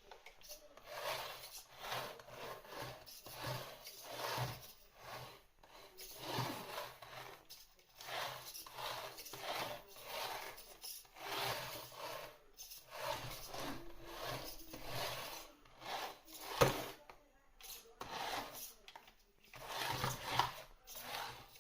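A small RC car's brushed motor and plastic drivetrain giving a faint rasping whirr in short, irregular bursts of throttle, one or two a second, with a sharper click about two-thirds of the way through.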